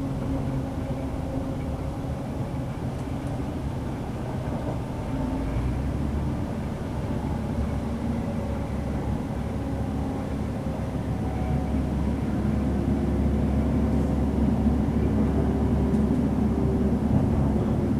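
Class 185 diesel multiple unit running, heard from inside the passenger saloon: a steady low rumble of the underfloor diesel engine and wheels on rail, with a faint whining tone, growing louder in the second half.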